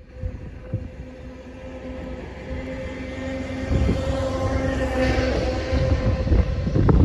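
A train approaching and passing close by, getting louder over the first four seconds, then running loud with a steady hum and a few knocks near the end.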